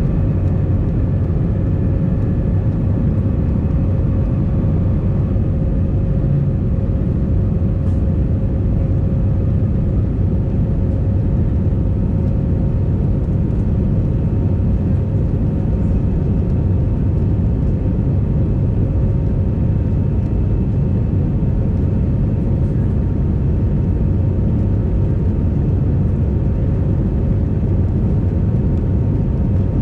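Airbus A320 airliner heard from inside the cabin: a steady, even rumble of engines and airflow with a constant hum running through it.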